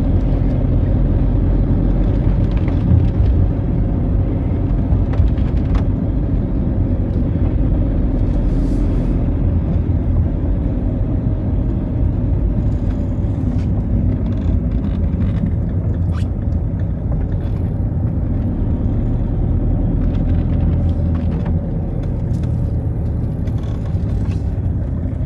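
Citroën Xsara driving on wet roads: a steady low rumble of engine and tyres, with scattered faint clicks.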